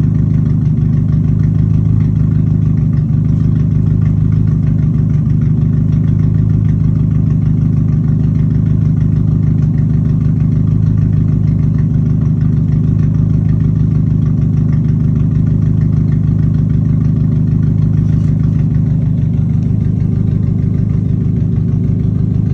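Dodge Neon four-cylinder engine with a straight-piped exhaust idling steadily. The idle note changes slightly and drops a little in level about 19 seconds in.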